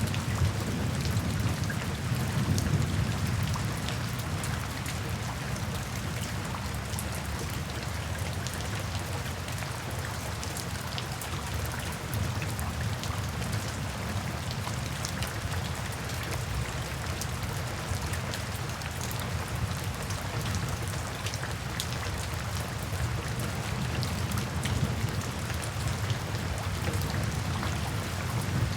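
Steady rain, with sharp crackles from a wood fire scattered through it. A low thunder rumble dies away over the first few seconds.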